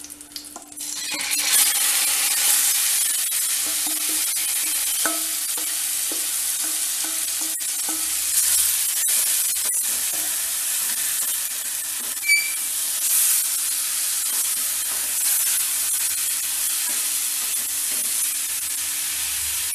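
Yogurt-marinated chicken pieces frying in hot butter in a pan: a loud, steady sizzle that starts about a second in as the chicken goes in. A few metal clicks from stirring break through, with one short ring about halfway through.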